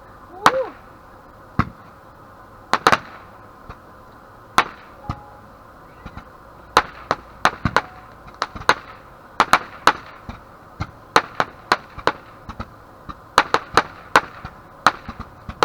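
Small fireworks or firecrackers going off: a run of sharp, irregular pops and cracks, a few at first, then coming thick and fast from about halfway through.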